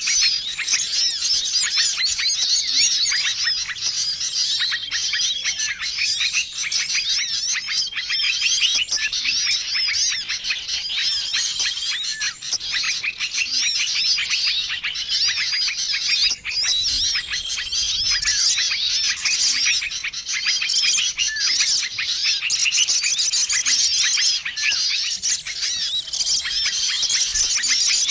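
Bird-lure recording of many small songbirds calling over each other: a dense, unbroken mix of rapid chirps and twitters, with a short steady whistled note coming back every few seconds. It is a noisy small-bird call combination used to attract wild small birds.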